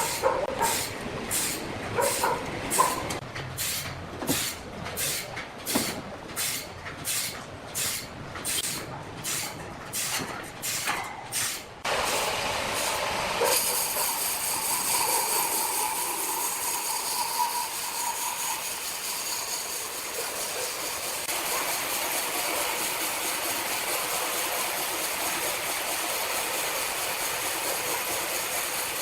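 Sawmill machinery running: about twelve seconds of evenly repeating hissing strokes, roughly one and a half a second, then a sudden change to a steady, continuous machine noise.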